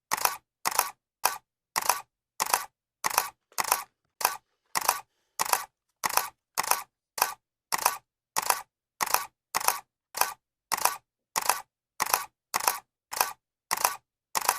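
Camera shutter clicking over and over at an even pace, a little under two clicks a second. Each click is a quick double snap with silence between.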